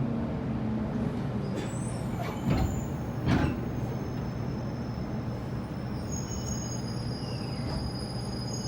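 JR Kyushu 811 series electric train coming to rest: a fading motor tone, then two short loud hisses of air, typical of the air brakes, about two and a half and three and a half seconds in, over a steady hum with thin high-pitched tones from about halfway.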